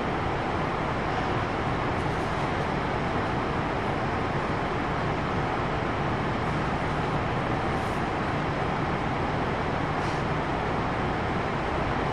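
Steady hum and hiss inside a Kintetsu 1021-series electric train standing at the platform with its onboard equipment running, with a few faint ticks.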